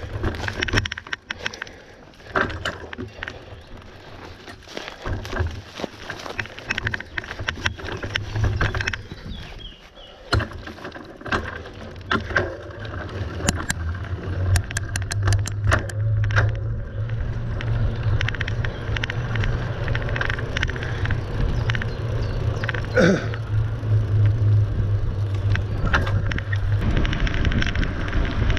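Mountain bike ridden over rough ground: scattered rattles and knocks from the bike and tyres, with a steady low rumble that grows stronger from about halfway through.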